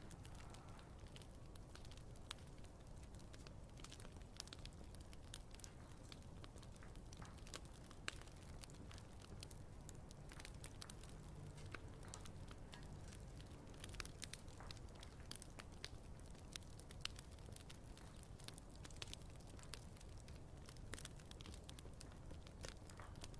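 Wood campfire crackling: many small irregular pops and snaps over a faint low rumble.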